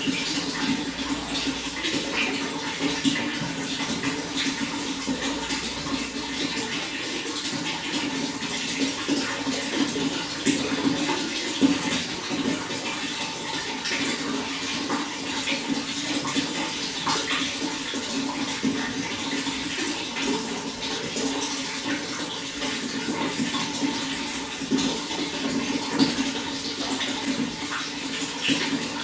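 Running water flowing steadily, a dense continuous rush with many small splashes throughout.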